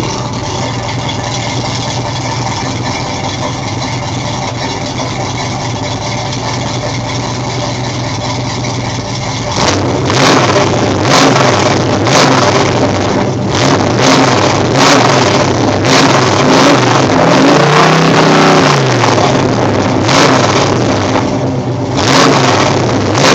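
V8 engine in a Chevrolet S10 running through a Summit Racing full exhaust with a dual in/out muffler, 2.5-inch mandrel-bent pipes and Hedman shorty headers. It idles steadily, then about ten seconds in it is revved in a string of short blips, with one longer rev that rises and falls.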